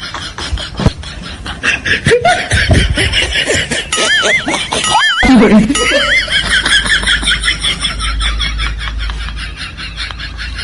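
Laughter, with a warbling whistle-like tone about four to six seconds in.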